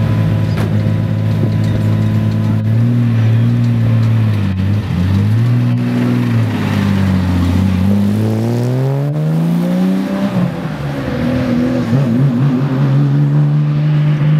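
Porsche 911 GT3 Cup race car's flat-six engine, loud and running steadily at first, then rising and falling in pitch as it is revved and accelerated, with one long rising pull about two-thirds of the way in before the revs drop.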